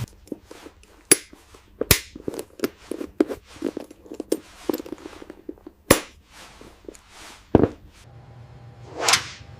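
Irregular sharp clicks and taps, with loud knocks about a second in, two seconds in, six seconds in and seven and a half seconds in, and a swish near the end.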